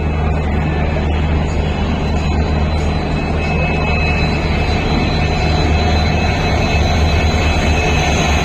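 WDP4D diesel locomotive's engine running with a steady low drone as the train pulls into the station.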